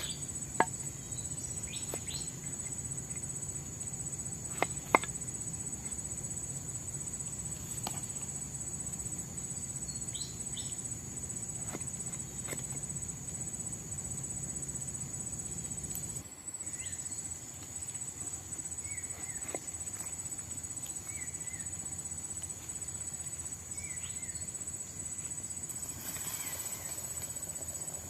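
Steady high-pitched chorus of forest insects. A few sharp clicks or knocks come about half a second and five seconds in.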